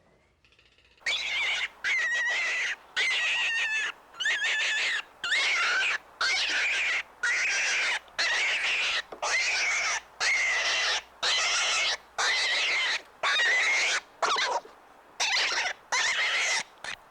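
An animal calling over and over, about once a second: short, noisy cries with a wavering pitch, each breaking off sharply.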